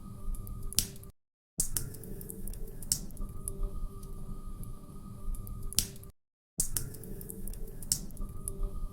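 Wood fire in a fireplace crackling, with irregular sharp pops and snaps over a low rumble. The sound cuts out to silence for about half a second twice.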